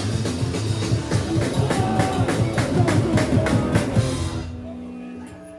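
Live rock band playing loud, with drums and distorted guitar, the drums hitting a fast steady beat; the song stops about four and a half seconds in, leaving fainter ringing guitar notes.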